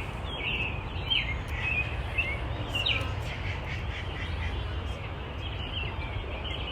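Small birds chirping, many short calls, busiest in the first three seconds and thinning out after, over a steady low rumble.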